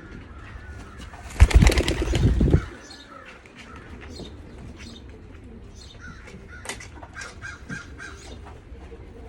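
A racing pigeon flapping its wings in one loud burst of about a second, starting a second and a half in. Faint short bird calls follow later.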